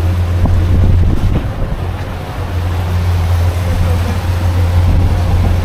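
New Mercury outboard motor running steadily with the boat under way, a constant low drone during its break-in hour. Wind noise on the microphone.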